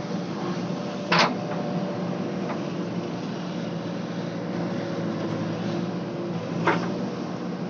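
JCB backhoe loader's diesel engine running steadily, with two sharp metallic knocks, one about a second in and one near the end.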